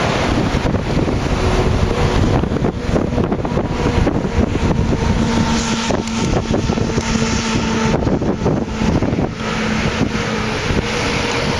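Diesel freight locomotive engine running, a steady hum with a few held tones through the middle, under heavy wind noise on the microphone.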